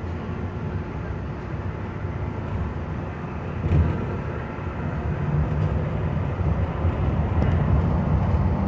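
Walt Disney World monorail running, heard from inside the car: a steady low rumble that grows louder toward the end, with a single knock about four seconds in.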